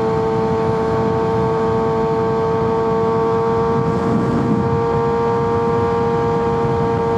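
Kawasaki ZX-6R sport bike riding at a steady speed, its engine held at constant revs as one unchanging hum over rushing wind and road noise.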